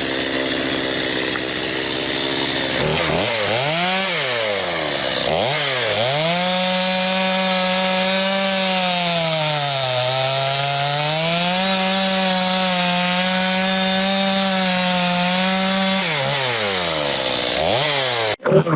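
Two-stroke chainsaw running at low revs, blipped up a few times, then held at full throttle through a cut in a birch log, its pitch sagging under load midway and recovering before the throttle is let off near the end.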